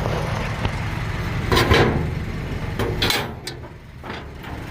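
International DT466 straight-six diesel idling steadily, with two short bursts of noise, one about a second and a half in and one about three seconds in. The engine sound dips for a moment near the end.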